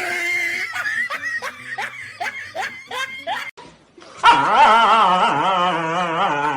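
A dog yipping in quick, short rising yelps, about seven in under three seconds, then after a brief pause one long, wavering cry that lasts to the end.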